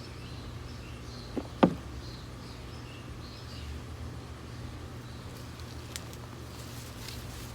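Two short knocks about a second and a half in, the second louder, over a low steady rumble and faint high chirps.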